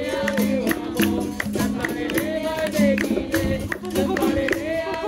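Capoeira roda music: a pandeiro's jingles and a plucked-string drone keep a steady rhythm while a voice sings long gliding phrases.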